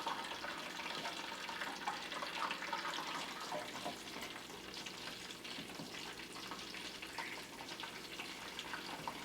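Flour-coated chicken frying in a pan of hot oil: a steady crackling sizzle that eases a little after the first few seconds. The oil is hot but not as hot as the cook wanted.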